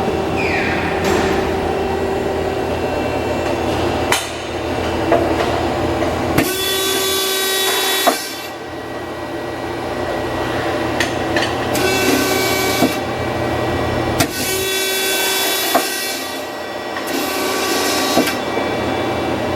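Okuma Genos L250E CNC turning center running with a steady machine hum and whine, broken four times by hissing bursts of a second or two, with a few sharp clicks.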